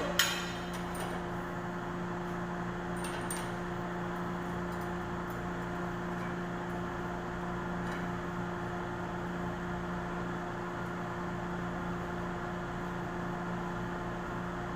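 Steady machine hum with two even low tones, and a few light metallic clicks near the start.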